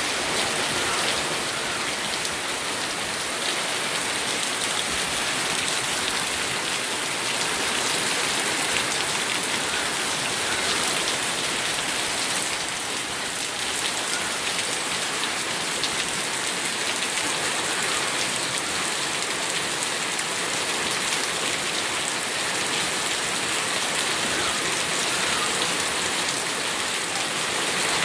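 Steady rain falling, a continuous hiss of many drops pattering on a surface.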